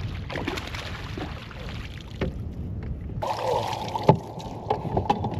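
Water sloshing against a kayak hull with wind rumbling on the microphone. About three seconds in, a steady mechanical whirring starts, with sharp clicks and knocks over it.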